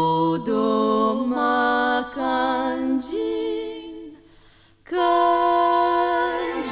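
Wordless, almost unaccompanied singing: a row of held vocal notes with a slight waver. It fades away about four seconds in, and a last long held note begins about a second later.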